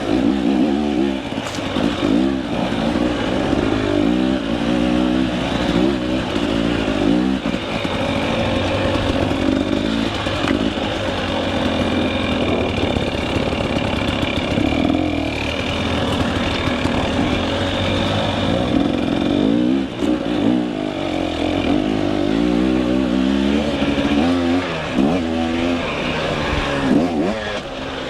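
KTM 300 EXC single-cylinder two-stroke dirt bike engine revving up and down continuously as it is ridden along a rough trail, the pitch rising and falling with the throttle.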